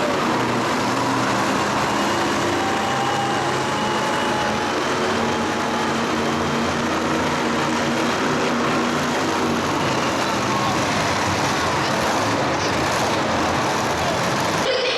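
Loud, steady engine noise from motorsport vehicles running and revving, its pitch wavering throughout; the sound changes abruptly just before the end.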